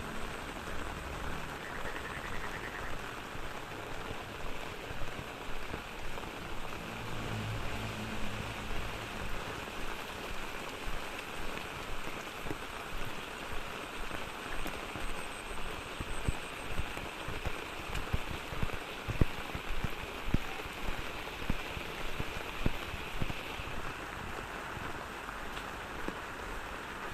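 Steady rain, with the sharp ticks and splats of single heavy drops hitting a surface, coming thicker and louder in the second half.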